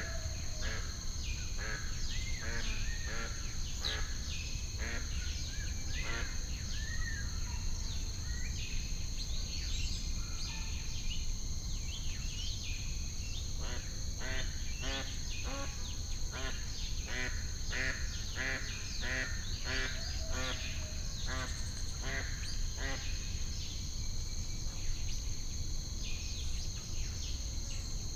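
A flock of lake birds calling over and over in short, duck-like calls, busiest in the second half. Under them run a steady high insect buzz and a low rumble.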